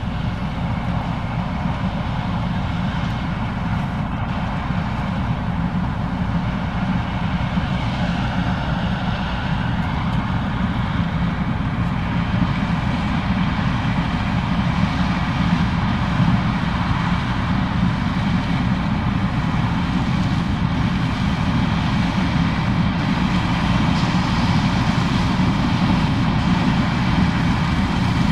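Case IH 2366 combine running steadily while harvesting corn, its engine and threshing machinery making a continuous drone that grows slightly louder toward the end.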